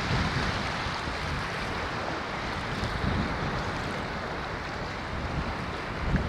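Ocean waves washing onto a shore in a steady rushing wash, swelling gently and easing back every few seconds.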